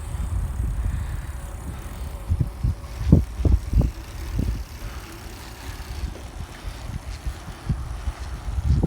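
Wind buffeting a phone's microphone on a moving bicycle: a low, uneven rumble, with a few sharper gusts about three to four seconds in.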